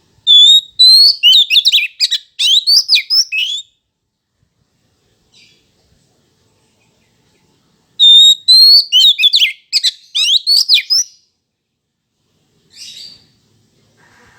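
Oriental magpie-robin (kacer) singing two loud song phrases about eight seconds apart, each opening on a held whistle and breaking into rapid, varied sliding notes. A few faint short calls come between and after them.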